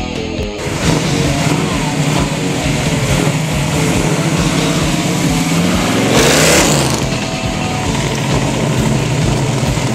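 1969 Camaro's 565 cubic-inch big-block Chevy V8 running as the car pulls away, a steady deep exhaust note with a brief louder surge about six seconds in where the engine note drops and climbs again.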